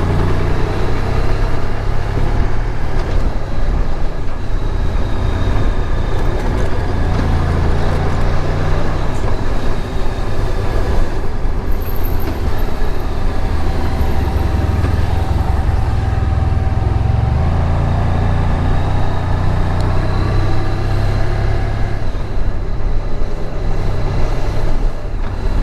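Honda VFR1200X Crosstourer motorcycle running steadily at road speed, its V4 engine heard under a heavy, steady low rumble of wind noise.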